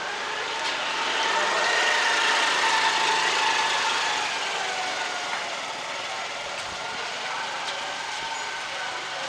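A motor vehicle's engine passing close on a wet street, growing louder over the first couple of seconds and then easing away, over a steady hiss.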